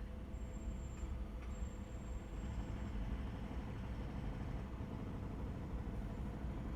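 Steady low rumble of a car being driven, engine and road noise heard from inside the cabin, even throughout with no sudden events.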